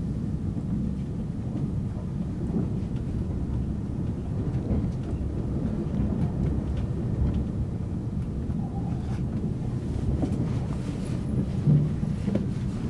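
Steady low rumble of a moving train heard from inside the passenger car, with faint ticks and one brief louder knock near the end.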